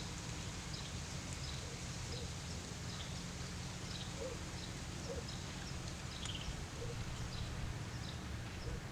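Birds chirping now and then, short high calls scattered across the stretch, over a steady low background rumble.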